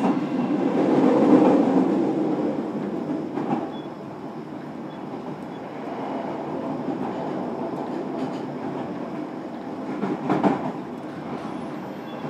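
Interior running sound of a JR Kyushu 305 series electric train in its motor car, which has a Toshiba permanent-magnet-motor VVVF drive: a continuous rumble of wheels on track, louder for the first two seconds and then quieter, with a couple of short knocks from rail joints.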